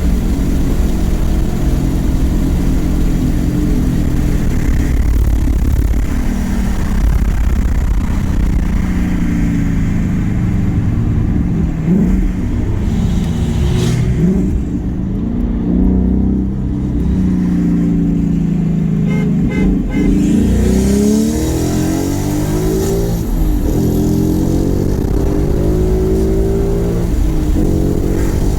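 Car engine running loud and revving: a steady low rumble, then from about ten seconds in the pitch climbs and falls again and again as it accelerates and comes off the throttle.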